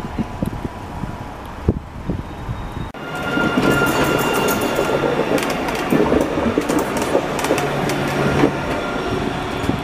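A rail vehicle passing close by, suddenly louder about three seconds in, with a steady hum and whine and rapid clattering clicks from the wheels on the track.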